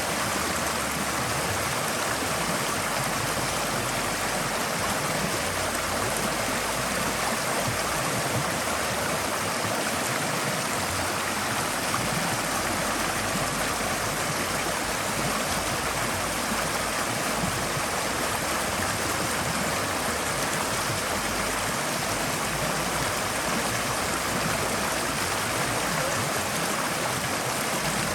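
Forest stream flowing steadily, an even rush of water over stones with fine gurgling detail.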